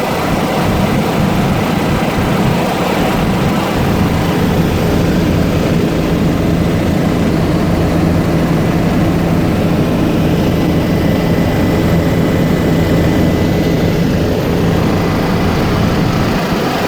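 Helicopter engine and rotor running steadily, a loud constant drone with a low hum.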